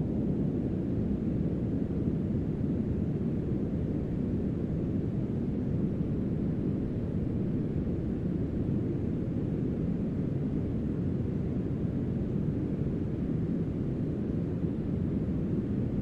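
Steady brown noise mixed with rain sound: an even, deep hiss with no breaks or changes, its energy mostly low.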